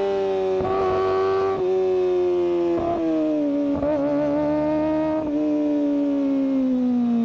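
Kawasaki Ninja ZX-25R's 250 cc inline-four engine and exhaust running at high revs. It gives a high, steady note that slowly drops in pitch, with short rough breaks about a second in and around three, four and five seconds. The pitch falls further near the end as the revs come down.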